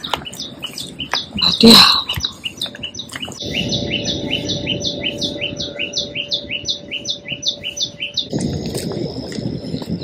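Birds chirping outdoors, with a loud squawk about two seconds in and then a fast, regular run of repeated chirps, about four a second, through the middle.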